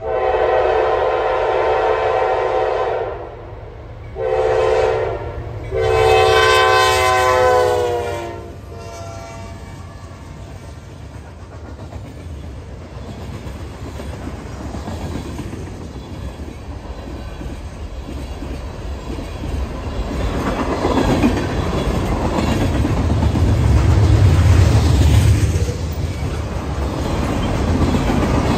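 Norfolk Southern freight locomotive's air horn sounding a long blast, a short one and a long one that drops in pitch at its end. Then the freight cars roll past with a steady rumble and clatter of wheels on the rails, growing louder toward the end.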